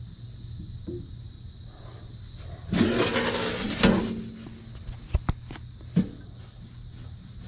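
A loud, harsh rasping noise for about a second and a half, then three sharp clicks, over a steady hum: a motor shaft being worked by hand to check its bearings.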